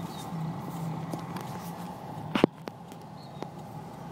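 Motor vehicle engine idling close by, its low hum fading out about two seconds in. A single sharp knock follows shortly after, then a few faint clicks.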